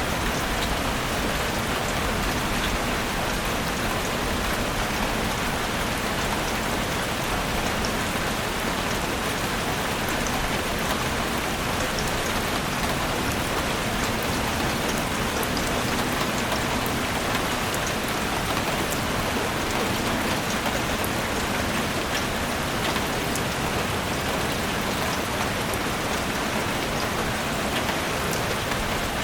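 Steady rain falling in a forest, an even hiss with many individual drops pattering.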